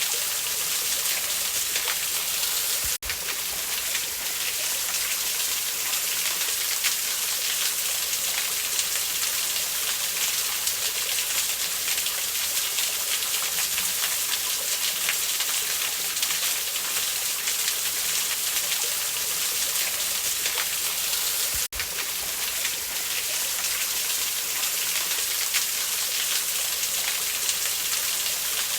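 Steady rushing of a waterfall, an even watery hiss, dipping briefly twice, about three seconds in and again near twenty-two seconds.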